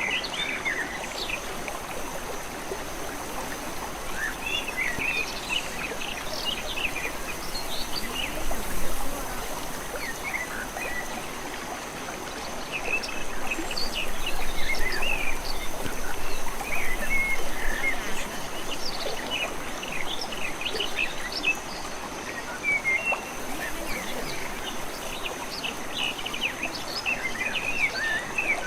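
Several small birds chirping and trilling over a steady background of running water.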